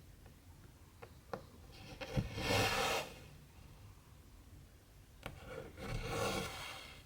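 Cotton embroidery thread pulled through 14-count cross-stitch fabric: two rasping pulls of about a second each, the first about two seconds in and the second near the end, each preceded by a few light ticks.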